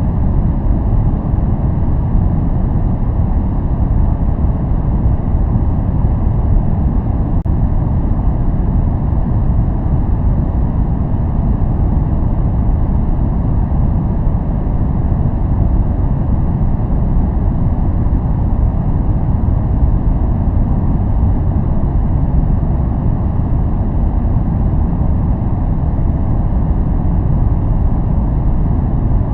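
Steady, unbroken noise track for focus or relaxation, deep in tone. Most of its energy sits in the low end and it thins out above the mid range with almost no treble, so it is nearer to brown noise than to true white noise. It holds the same level throughout.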